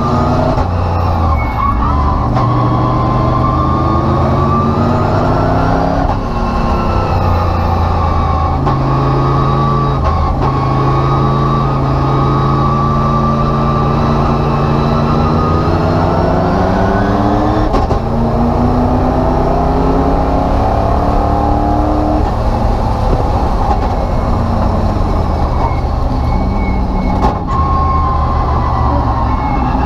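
An IROC Camaro race car's engine under hard throttle, heard from inside the stripped cabin. The revs climb and fall back several times as the car accelerates down the straights and slows for corners.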